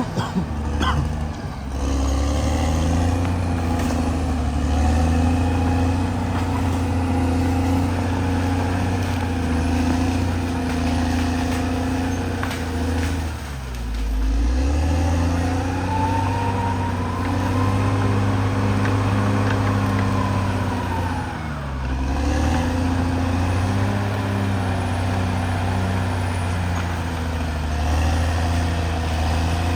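Caterpillar D6R XL bulldozer's diesel engine running steadily, its pitch dropping sharply twice, about halfway through and again later, and recovering each time. A higher whine rises and falls in the middle stretch.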